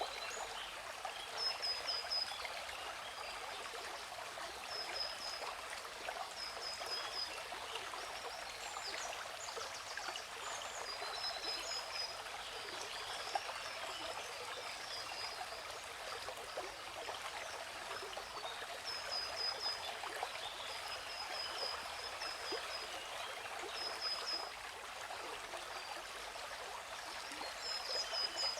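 Steady rush and splash of a waterfall, with a bird giving short runs of high, quickly repeated chirps every few seconds.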